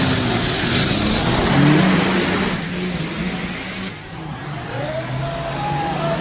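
Race truck's engine running hard under acceleration, with a high whine rising in pitch over the first second and a half; the engine then falls away and gets quieter about two and a half seconds in.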